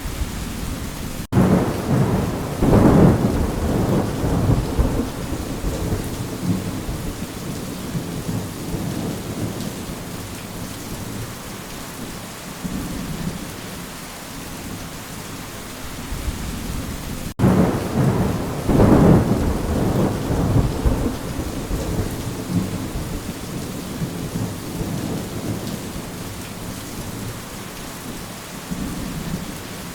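Steady rain with two rolls of thunder, one about a second in and one about halfway through, each rumbling for several seconds before fading back into the rain. The two thunder rolls are nearly identical and each follows a brief dropout, as where a recorded rain-and-thunder track loops.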